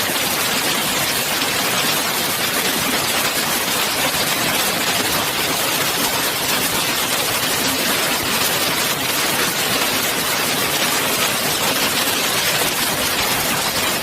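Hailstones pelting down steadily, countless small impacts blending into one loud, even noise.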